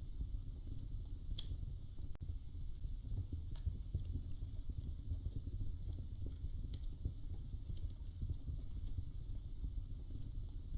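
Wood fire crackling in a fireplace: scattered sharp pops and snaps every second or two over a steady low rumble of the burning logs.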